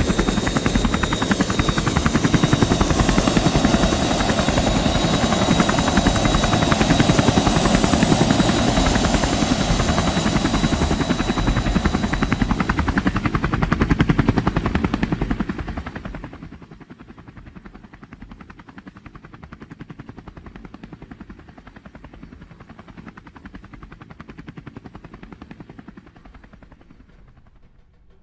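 Quadcopter drone's propellers running with a steady high whine and rapid buzzing. The sound drops away sharply about fifteen seconds in and keeps fading as the drone flies off.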